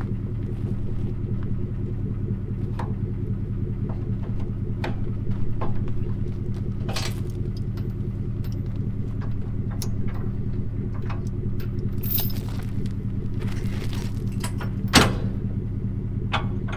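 Vehicle engine idling steadily, with scattered light metallic clinks and a sharp clank about fifteen seconds in.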